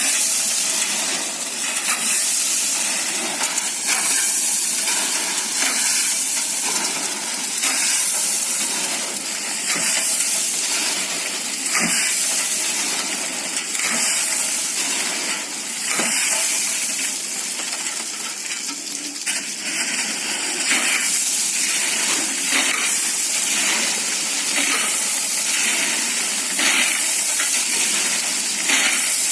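Concrete being unloaded from a truck: a steady hissing rush with many irregular scrapes and clinks of metal tools against wet concrete.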